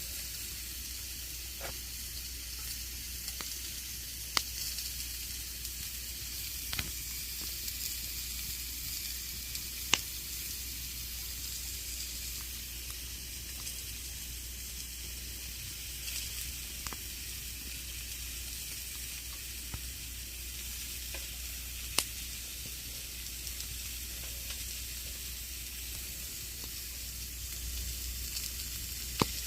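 Campfire burning: a steady hiss with scattered sharp crackles and pops, the loudest about ten seconds in and again about twenty-two seconds in.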